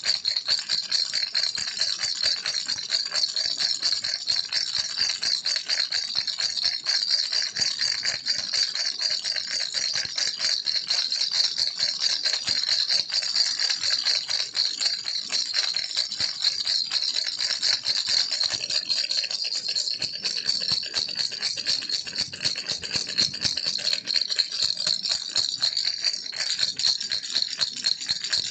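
Baby rattle shaken continuously, a fast, unbroken clatter of small beads inside it.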